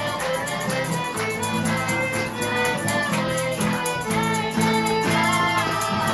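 A small ensemble playing an instrumental passage of a romance: sustained bowed-string melody notes over plucked strings, with a light percussion rattle keeping a steady beat.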